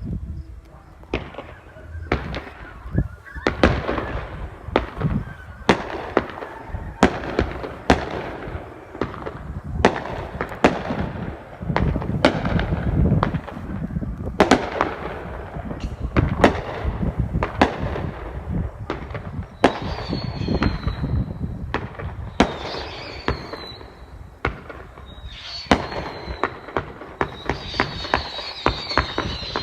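Fireworks display: a dense run of aerial shell bangs and booms, several a second at times, with rumbling echoes between them. From about two-thirds of the way through, a high crackling hiss joins the bangs.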